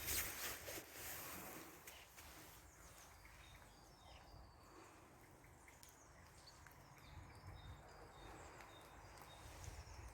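Faint outdoor ambience: a low rumble with scattered distant bird chirps.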